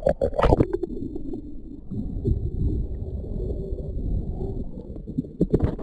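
Muffled underwater rumble and gurgling of sea water around an action camera. There are splashy crackles in the first half second, as the camera rides the waterline, and again near the end.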